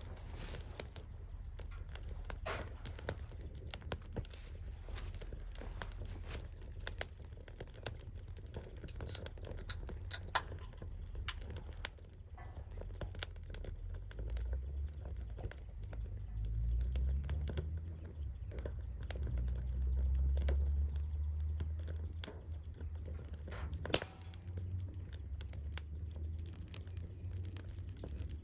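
Irregular small crackles and clicks, with a low rumble that swells about halfway through and then fades.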